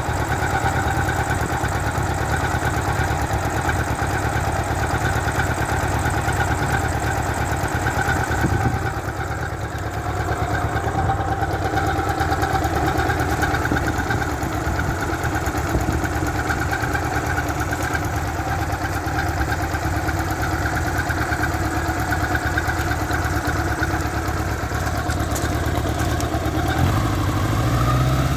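1986 Honda Gold Wing GL1200 Aspencade's flat-four engine idling steadily, with a high squeal running over it. The engine speeds up a little near the end.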